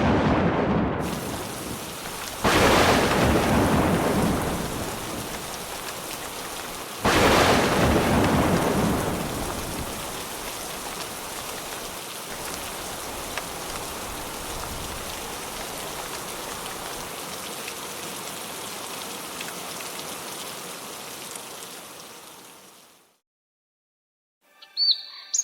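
Steady rain with two thunder claps, about two and a half and seven seconds in, each loud at first and rumbling away over several seconds. The rain fades out near the end, and after a short silence chirping begins.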